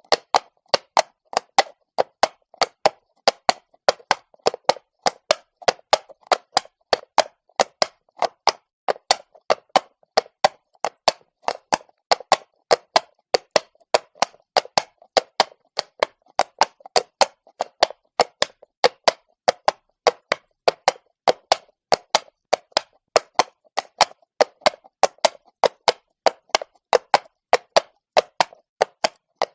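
A horse's hooves clopping on stone as it walks, in a steady even rhythm of about three hoof strikes a second.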